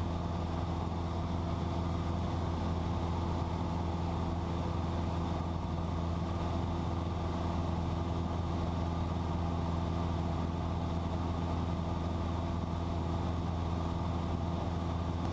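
Cessna 172's piston engine and propeller droning steadily in cruise, heard inside the cabin: an even low hum with several steady tones over a rushing noise.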